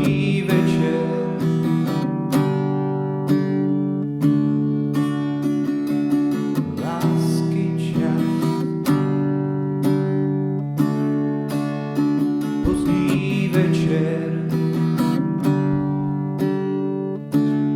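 Acoustic guitar strumming sustained chords, about one strum a second, with a wavering high voice-like sound joining in three times.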